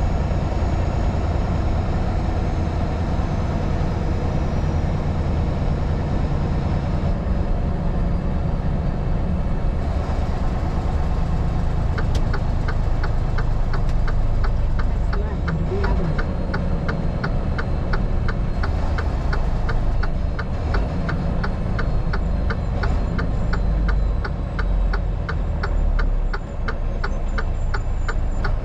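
Vehicle engine and road noise heard from inside the cab, with a turn signal clicking about twice a second from about twelve seconds in.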